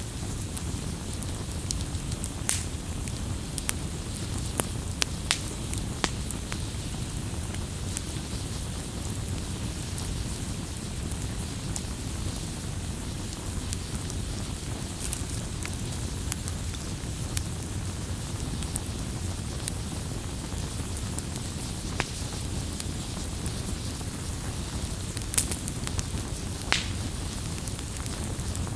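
Wood campfire burning: a steady low rush of flame with scattered sharp crackles and pops, two of them louder near the end.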